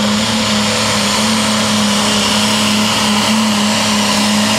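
Super stock pulling tractor's diesel engine running flat out under load, at a loud and steady pitch.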